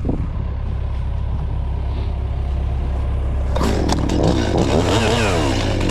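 Diesel engine of a John Deere 60G mini excavator idling with a steady low hum. About three and a half seconds in, a chainsaw starts and revs up and down.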